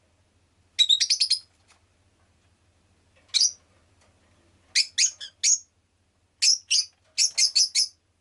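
Rosy-faced lovebird giving short, shrill chirps in quick runs: about five in a row, a single one, then several more runs with short pauses between.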